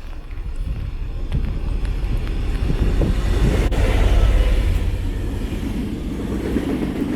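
A train running through the station: a deep rumble that builds over the first few seconds, peaks about four seconds in, then holds steady.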